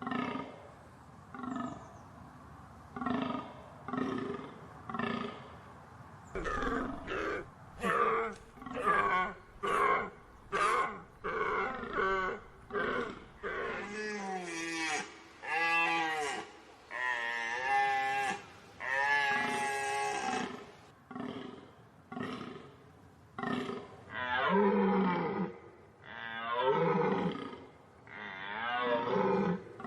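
Deer calling over and over: short pitched calls about once a second, then a run of longer calls that rise and fall in pitch, then shorter calls again near the end.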